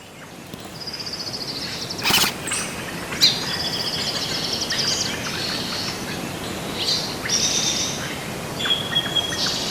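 Birds chirping and trilling in repeated high calls, over steady outdoor background noise, with one sharp knock about two seconds in.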